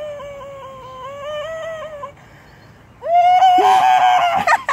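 A boy making a high, wavering vocal noise with his mouth, held for about two seconds. After a short pause a louder held tone starts about three seconds in and breaks up into short bursts near the end.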